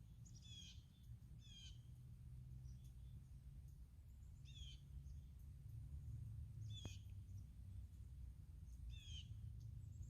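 Faint bird chirps, about five short descending calls spaced roughly two seconds apart, over a low steady rumble in otherwise near silence.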